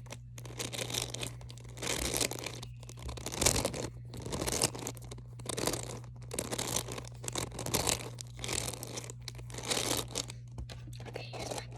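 A beaded squishy toy with the air let out, squeezed by hand over and over. The beads inside crackle and crunch in repeated bursts.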